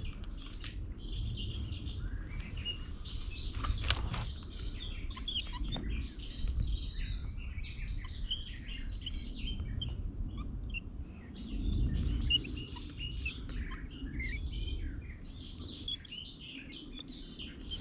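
Small birds singing: many short chirps and trills overlapping throughout, over a low rumble, with one sharp click about four seconds in.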